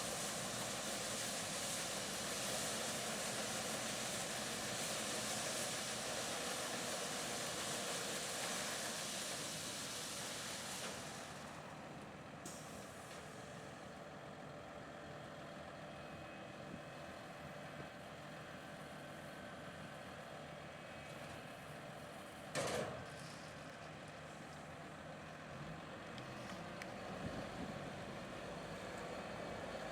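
Harvest machinery running steadily in the field, louder for the first ten seconds or so and then quieter, with one brief sharp knock about twenty-three seconds in.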